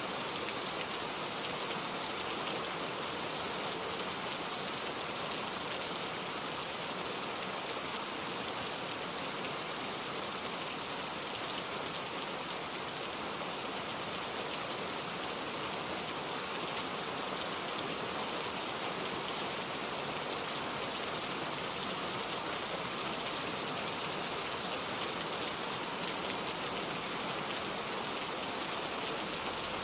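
Steady rain falling, an even, unbroken hiss of many drops with one brief tick about five seconds in.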